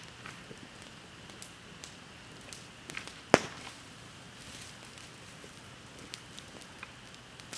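Wood bonfire crackling, with scattered small snaps over a steady hiss and one sharp, much louder pop about halfway through.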